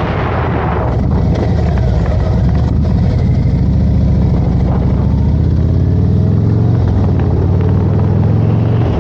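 Harley-Davidson Road Glide's V-twin engine running under way, with wind rush over the microphone that eases off about a second in; the engine note rises gently through the middle as the bike picks up speed.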